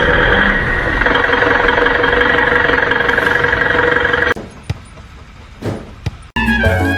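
A loud, steady engine-like running noise with a held whine, cutting off abruptly about four seconds in. A few short knocks follow, then Latin-style music starts near the end.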